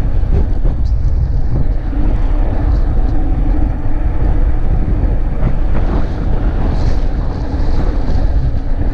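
Wind rushing over the microphone of a rider moving on an electric fat bike under throttle, a loud, steady low rumble with the ride's road noise underneath.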